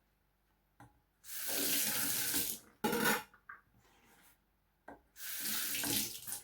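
Kitchen tap water running into a sink in two short spurts of about a second each, with a brief clunk and small clicks between them.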